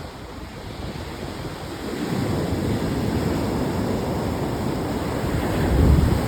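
Ocean surf breaking and washing up the beach, a steady rushing that swells about two seconds in and surges loudest near the end, with wind on the microphone.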